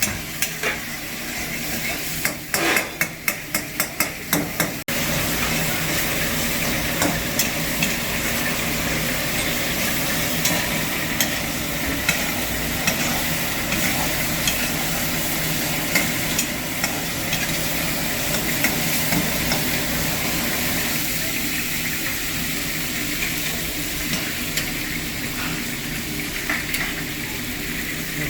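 Chicken karahi frying and sizzling in a karahi pan as it is stirred. About two seconds in comes a quick run of about a dozen sharp metal clanks, then a steady frying hiss with scattered scrapes and clicks.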